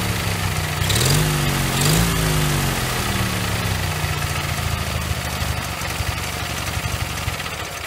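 Ural motorcycle's air-cooled flat-twin engine, built from defective parts, running on its first start: it is blipped up and back down twice, about one and two seconds in, then settles to a steady idle without knocking.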